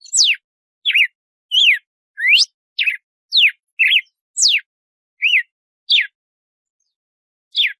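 Red-cowled cardinal (galo-de-campina) singing its 'açoite' song: a run of clear whistled notes, each a quick upward or downward slur, about two a second. The notes pause after about six seconds, with one last note near the end.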